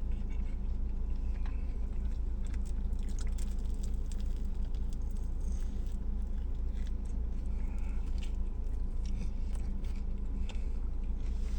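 A man chewing and biting into a Subway sub sandwich, with scattered soft crunches of the bread, over a steady low hum.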